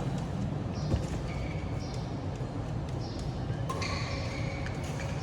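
Badminton shoes squeaking on the court floor in short chirps, several times, with a longer run of squeaks near the end. There is a sharp racket-on-shuttlecock hit about a second in, over the steady low rumble of the hall.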